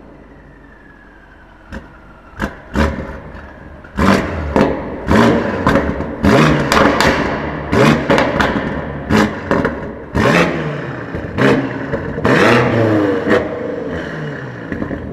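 BMW M5 F90's twin-turbo V8 revved in a string of short, sharp throttle blips, about one a second, each rising and falling quickly with loud exhaust cracks. It opens quieter with a few isolated cracks, and a slightly longer rev comes near the end before the sound dies away.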